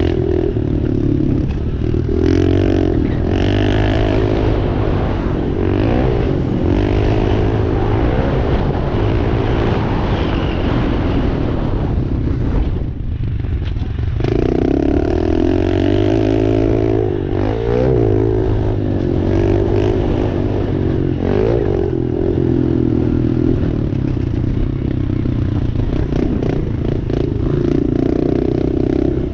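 Dirt bike engine under hard riding, revving up through the gears and backing off again and again in repeated rising sweeps. The throttle shuts off briefly about 13 seconds in before the engine picks up again.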